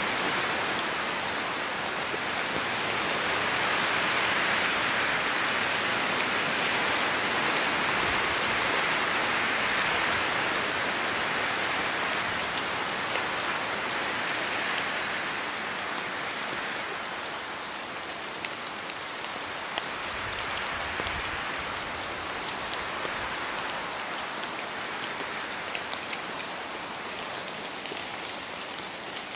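Rain falling steadily, with scattered individual drops ticking close by. The hiss swells louder over the first third and then eases off.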